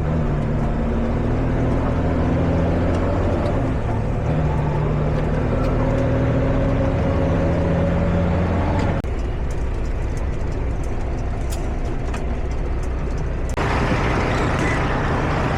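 Semi-truck's diesel engine pulling under load as the truck gathers speed, its tone slowly rising. About nine seconds in the engine sound drops abruptly, and near the end it turns noisier and brighter.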